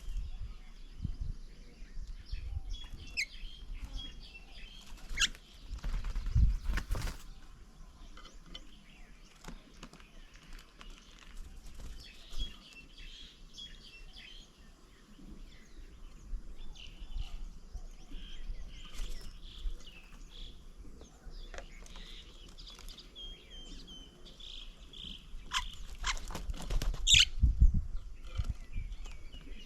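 Small garden birds at a feeding table chirping and calling in short scattered notes, with louder rustles and thumps twice: about six seconds in and again near the end.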